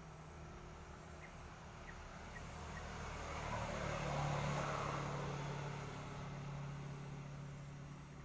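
An engine running steadily with a low hum, growing louder about three seconds in and fading again towards the end.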